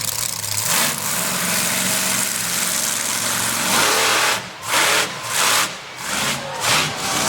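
Monster truck engine running loud at high revs, then blipped in several quick bursts with short throttle lifts in the last few seconds, as the truck makes a wheelie run.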